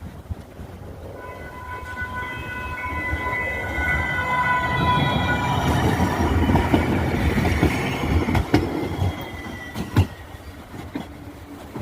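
Sacramento Regional Transit light rail train passing, its rumble swelling to a peak and fading, with a steady high-pitched whine of several tones that dips slightly in pitch as it goes by. Two sharp knocks from the wheels near the end.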